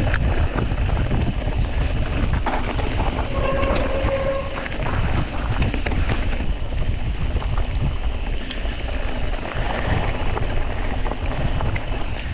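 Wind buffeting the microphone over the rumble and rattle of a mountain bike running fast down a rough dirt trail, with scattered clicks and knocks from the bike. A brief whine sounds about three and a half seconds in.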